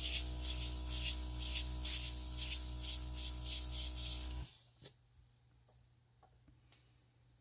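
Small airbrush compressor running, its motor humming steadily while air hisses from the airbrush in pulses about three times a second, blowing alcohol ink across the paper. It cuts off suddenly about four and a half seconds in, followed by a single click.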